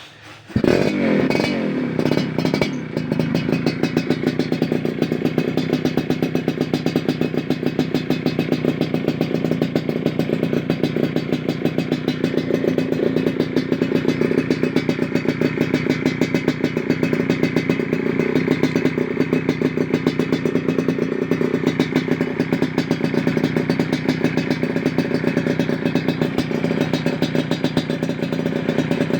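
Yamaha F1ZR's two-stroke single running through an RTX Racing aftermarket exhaust. It starts suddenly about half a second in, runs a little unevenly for the first couple of seconds, then idles steadily with a dense, rapid exhaust pulse.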